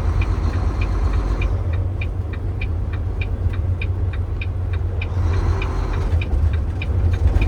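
A truck's turn-signal flasher clicking steadily, about three ticks a second, heard inside the cab over the steady low drone of the truck's engine.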